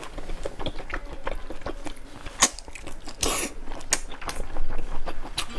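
Close-up chewing and biting of lamb: irregular wet mouth clicks and smacks, with a couple of louder breathy bursts about halfway through.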